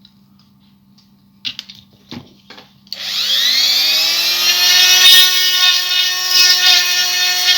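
A few light handling clicks, then a small electric drill spins up about three seconds in and runs with a steady high whine, boring through a plastic-filled pivot hole in a toy to clear a blockage.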